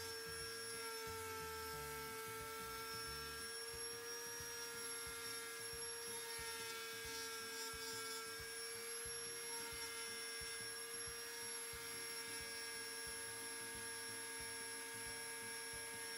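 A 50-year-old Bosch router running steadily under a router table with a high, even whine while it cuts a small wooden part fed against the bit.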